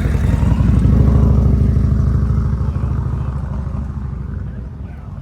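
A car driving past with a deep, pulsing exhaust note that grows louder over the first second or two, then fades away.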